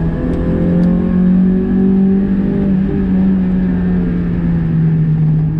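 Car engine pulling steadily, heard from inside the cabin, its note climbing a little about a second in and then slowly easing off, with road noise underneath.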